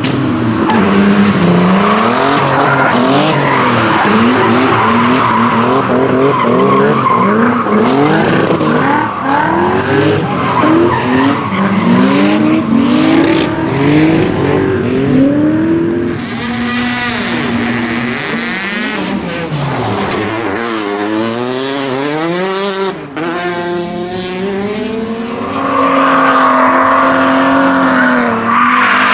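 Rally car engine revving hard, rising and falling in quick succession, with tyres squealing as the car slides. About halfway through the revs settle, then climb and fall in long sweeps before holding high again near the end.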